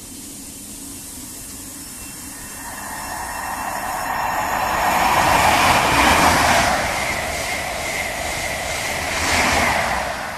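High Speed Train with Class 43 diesel power cars passing at speed: the rush and rumble of the power car and its wheels on the rails builds to its loudest about six seconds in, eases as the carriages run by, then swells again near the end.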